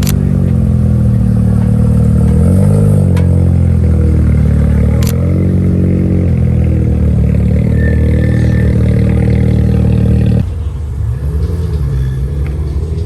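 A car engine running close by, its revs rising and falling twice, then dropping away about ten seconds in. A few sharp clicks cut through it.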